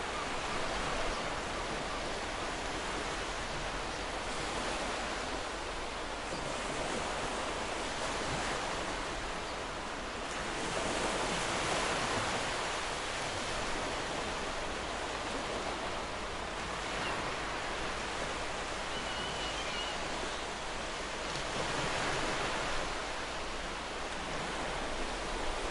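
Ocean surf washing onto a beach: a continuous rushing hiss that swells and eases slowly as the waves come in.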